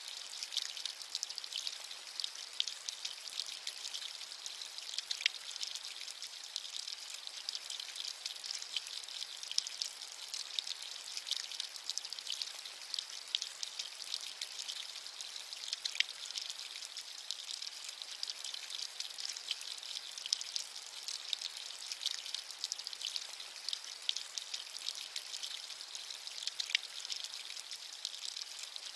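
Steady rain: a dense, even patter of many small drops, high and hissing with almost no low rumble, going on unchanged throughout.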